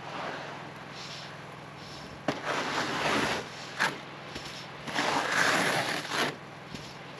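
Tent fabric being pushed up from underneath and the snow load sliding off it in rustling, sliding rushes: one starting sharply a couple of seconds in, a short one after it, and a longer one about five seconds in.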